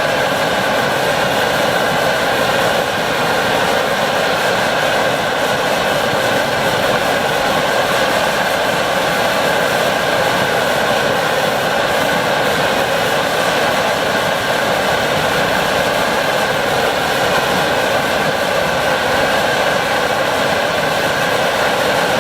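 Phoebus 725 pressure stove's roarer burner running steadily at a strong flame: a loud, even roar with a steady whistling tone on top.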